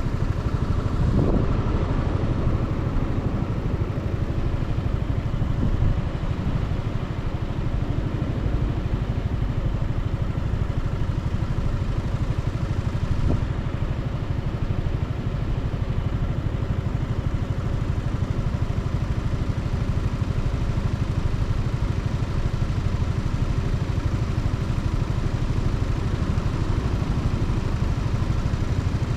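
Motorcycle engine running steadily as heard from the bike, a low, even chugging with no clear revving.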